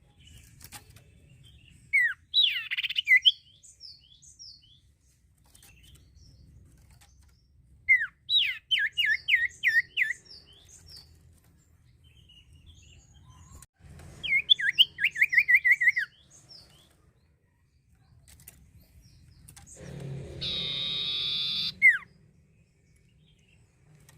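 An iora (cipoh) singing three bursts of rapid, repeated sharp whistled notes, each note falling in pitch, several seconds apart. About two-thirds of the way in comes a steady buzzy sound lasting about two seconds.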